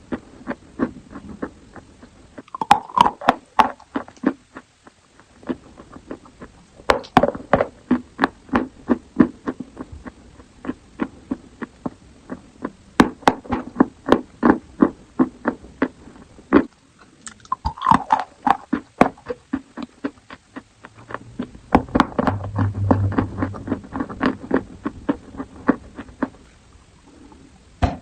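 Chalk being bitten and crunched close to the microphone: rapid runs of sharp, dry crunches in about five bursts with short pauses between them.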